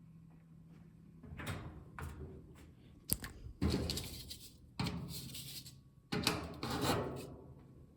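Handling noises on a washing machine: a sharp click about three seconds in and several scraping, clattering knocks as a part is worked into place.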